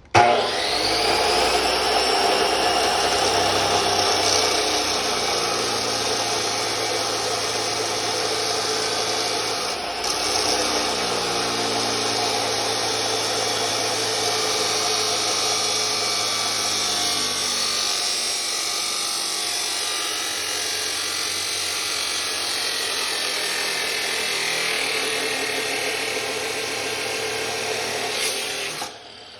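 DeWalt 14-inch chop saw switched on, its motor whine rising as the wheel spins up, then cutting through clamped metal stock in a steady, loud grinding whine for nearly half a minute before it is switched off just before the end.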